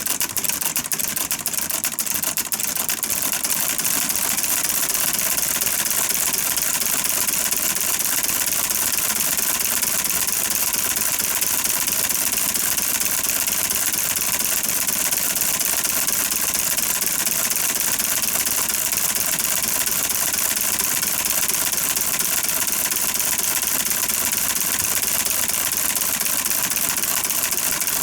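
Small two-stroke V8 engine running steadily at speed, a fast, high-pitched buzzing clatter with little low end.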